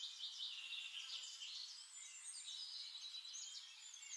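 Faint bird chirping: a run of short, high calls.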